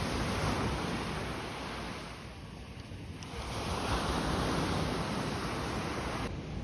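Sea waves washing onto the shore, swelling twice and easing in between, with wind buffeting the microphone.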